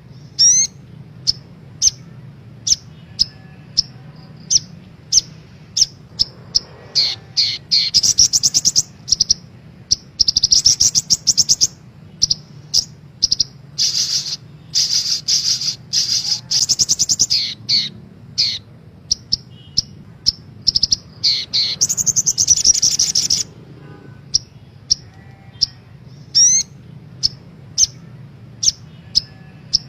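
Sogok ontong sunbird song: sharp high chirps repeated about twice a second, broken several times by rapid high trills lasting one to three seconds. It is a lure recording made to set other sunbirds singing.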